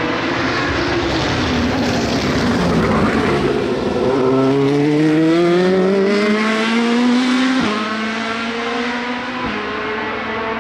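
Race car engine at the 24 Hours of Le Mans: the engine note drops as the car brakes and shifts down, then rises steadily as it accelerates hard out of the corner, with a sharp upshift about three-quarters of the way through.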